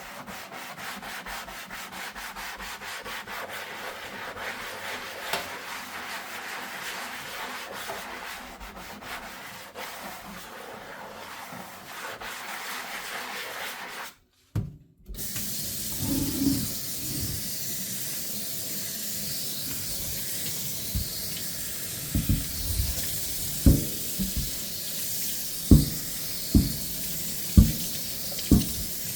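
Hand-washing dishes: a sponge scrubbing a dish in fast strokes, which stops with a brief gap about halfway through. A kitchen faucet then runs steadily while dishes are rinsed, with several sharp knocks of dishes against the sink toward the end.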